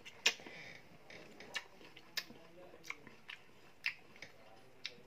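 Crisp crunching of unripe green Indian mango being bitten and chewed: a run of short, sharp crunches about every half second, the loudest about a quarter second in.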